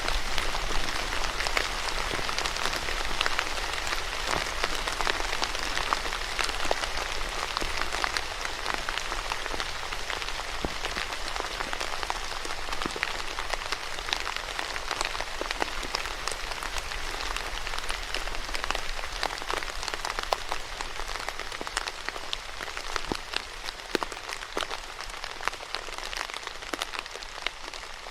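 Steady rain falling on a surface, a dense hiss with many distinct drop hits, easing slightly near the end.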